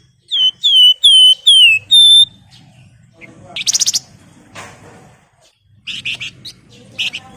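A wergan Jawa (flamboyan) songbird singing: five loud, clear whistled notes in quick succession, each slurring downward, the last one higher and held. These are followed by a short buzzy trill and, near the end, a few sharp chattering notes.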